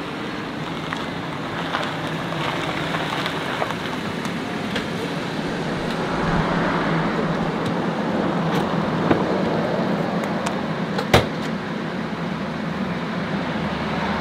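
Parked Cadillac sedan idling, a steady engine and road-like noise with no speech, growing a little about six seconds in. A single sharp click about eleven seconds in.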